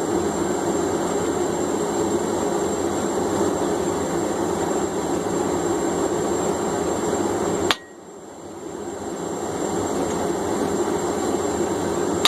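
Blacksmith's forge running with a steady, loud rushing noise. About eight seconds in it drops off suddenly with a click, then swells gradually back up.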